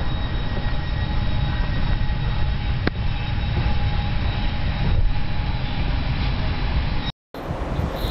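Train running on the rails: a steady rumble with a faint steady whine, and a single click about three seconds in. It cuts off sharply about seven seconds in, and a different recording begins.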